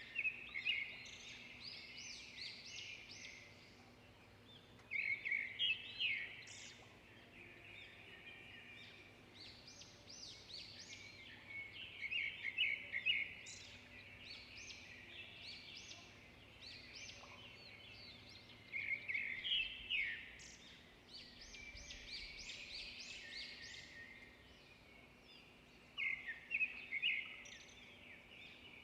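Songbirds singing: bursts of rapid chirping song phrases with quick upward sweeps, coming every few seconds over a faint steady background.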